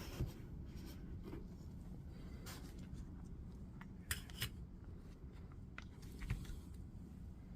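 Light clicks and taps of small hand tools and parts being handled on a workbench during soldering, over a steady low hum; the sharpest pair of clicks comes about four seconds in.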